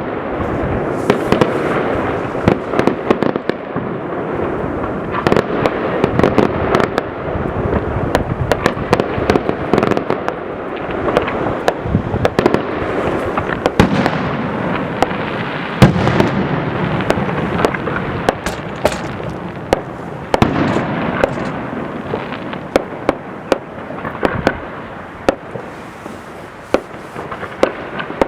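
Many fireworks going off at once: a constant rumble of overlapping bangs with frequent sharp cracks, the loudest about sixteen seconds in.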